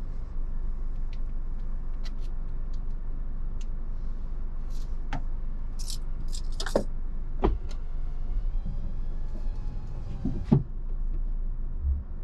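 Low steady rumble of a car heard from inside, with a scatter of sharp clicks and knocks in the second half, the loudest about ten seconds in.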